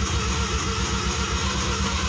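A 1985 Mazda RX-7's freshly rebuilt 12A street-ported rotary engine turning over on the key, a loud, steady, rapid pulsing, while it is tried for a starting problem.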